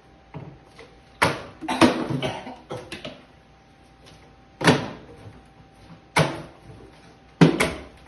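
A series of sharp knocks or bangs, about seven at irregular intervals, the first pair followed by a brief rattle, as objects strike something hard during an aiming game.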